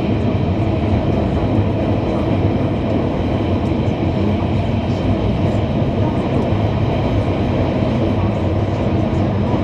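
Guangzhou Metro Line 6 linear-motor train running between stations: a steady rumble of the car on the track, with a few faint ticks.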